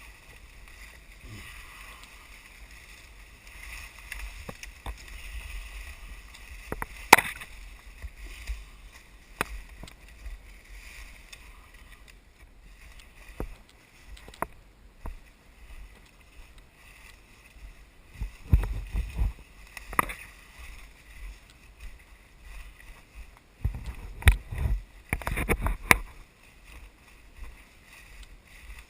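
Footsteps and body pushing through thick brush and leaf litter, with twigs snapping and branches swishing against the camera, heaviest in two bursts of rustling and thumping past the middle and near the end, over a steady high background drone.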